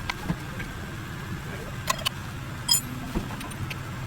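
A few sharp metallic clinks and taps, one ringing clink about two and three-quarter seconds in, over a steady low hum.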